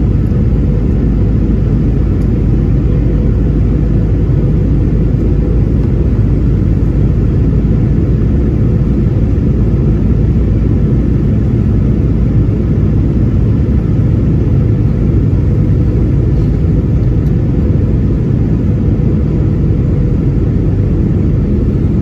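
Steady drone of airliner cabin noise in flight: engine and airflow sound heard from inside the cabin, with a few faint steady tones over a low rumble.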